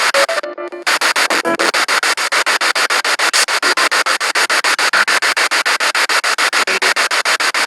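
Spirit box radio sweeping through stations: a steady hiss of static chopped into rapid, evenly spaced pulses as it jumps from channel to channel, with brief snatches of broadcast sound breaking through near the start.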